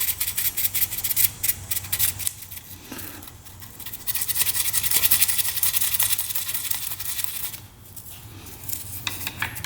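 Sandpaper being drawn back and forth between the corroded ignition contact-breaker points of a 1975 Yamaha RD200: a run of quick scratching strokes, then a longer, denser stretch of rasping. The points are being cleaned because dirt and corrosion on them are stopping the spark.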